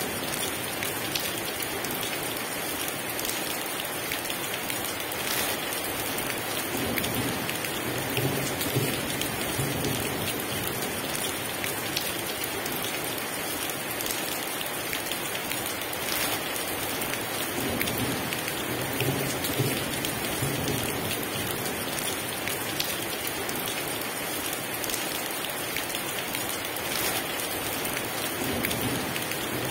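Heavy rain pouring steadily, a dense hiss of drops, with a low rumble of distant thunder now and then.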